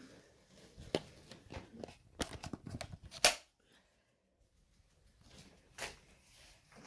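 Clicks, knocks and rustles of a camera or its stand being handled and repositioned. The loudest knock comes about three seconds in, followed by a moment of dead silence and one more click near the end.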